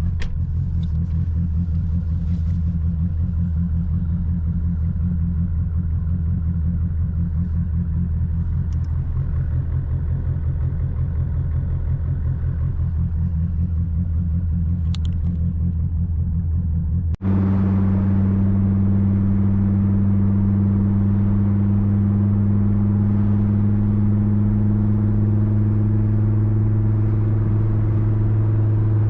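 Twin-turbocharged Dodge Viper V10 running at a steady cruise with a low, even drone. About 17 seconds in the sound cuts abruptly to a slightly higher, steadier drone.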